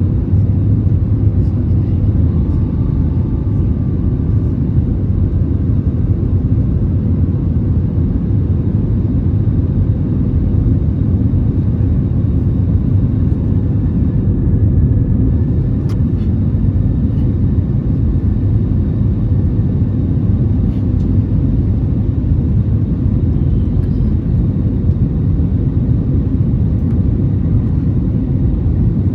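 Steady low rumble inside the cabin of an Airbus A320neo: engine and airflow noise from the aircraft, heard at an even level.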